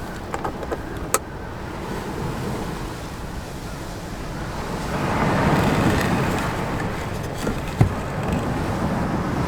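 Strong wind rushing around the parked car, swelling into a louder gust about halfway through, with a few sharp clicks and knocks.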